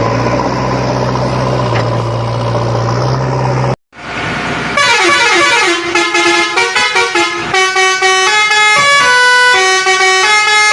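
Heavy vehicle engine running steadily, with a low hum. It cuts off abruptly a little under four seconds in, and after a moment a tune of held, pitched horn-like notes begins, stepping up and down in pitch.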